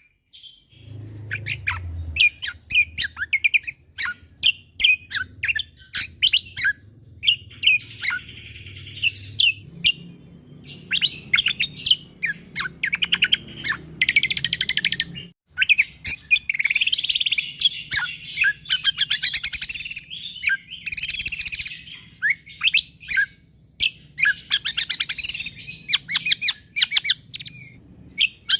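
Cucak kombo (kecial kombo) songbird singing in rapid, close-packed bursts of high chirps and trills, with a faint low hum beneath. The recording breaks off for a moment about halfway through, then the song resumes.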